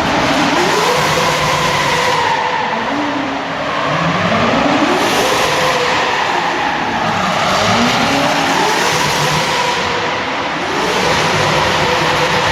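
Twin-turbo Toyota 1UZ V8 in a Nissan Silvia S15 revving hard through a drift run, its pitch climbing again and again as it pulls, over a steady hiss of tyres sliding and squealing.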